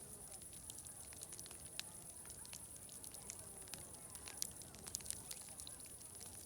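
Wood fire crackling, with irregular sharp pops, the loudest a little past the middle, over a steady high hiss and the faint murmur of distant crowd chatter.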